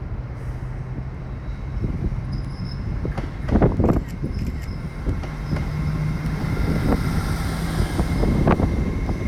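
Transpennine Express train running slowly at the platform: a steady low engine hum with a thin high squeal, and loud knocks about three and a half seconds in and again near the end.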